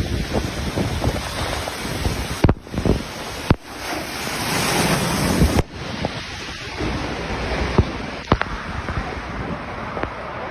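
Strong wind buffeting the microphone: a loud, steady rush with a few sharp knocks, breaking off abruptly a few times.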